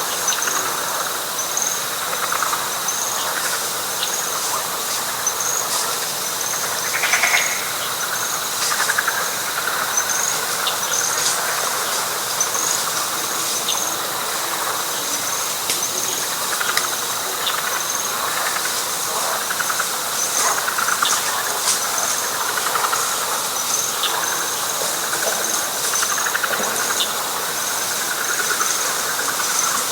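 Night chorus in a wet pine flatwoods: a dense frog chorus under a steady high insect trill, with a short high chirp repeating about once a second and scattered clicks.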